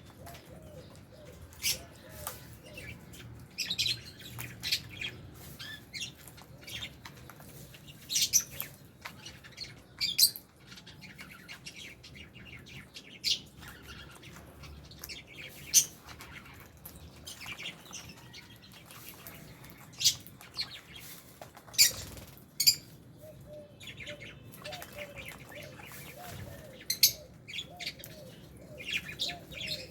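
A flock of lovebirds and budgies chirping, with frequent short, shrill calls scattered irregularly over softer, lower wavering calls.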